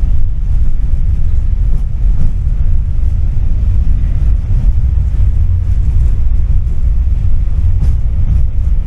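Steady low rumble of a tram running along its rails, heard from inside the car, with a few faint clicks.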